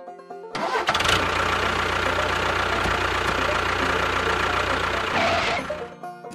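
An engine or motor runs steadily for about five seconds with an even rumble, starting about half a second in and cutting off near the end.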